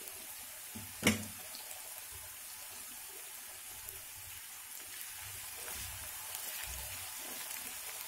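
Sliced onions and fennel seeds sizzling gently in oil in a kadhai, a steady hiss, with one sharp click about a second in.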